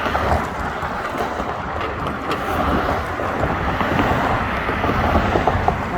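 Steady wind buffeting the microphone during an electric scooter ride, with road traffic from a busy four-lane road underneath.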